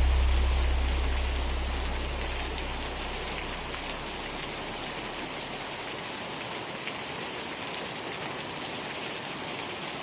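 Steady rain pattering, an even hiss with scattered drop ticks. A deep low note left over from the slowed song dies away over the first few seconds, leaving the rain alone.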